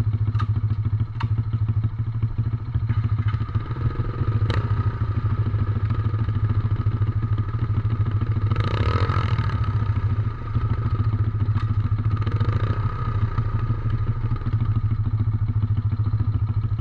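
Small 110cc four-stroke dirt bike engine running steadily, with a few light clicks and a short louder swell about halfway through.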